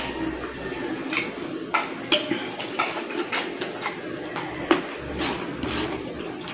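Close-up eating sounds: chewing and wet mouth smacks with irregular sharp clicks as fried fish is picked apart by hand and eaten, over a steady low background hum.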